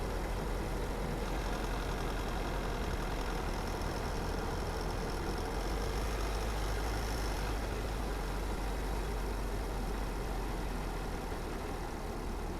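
A car driving at a steady pace: continuous engine hum and tyre-on-road rumble, heavy in the low end, easing off slightly near the end.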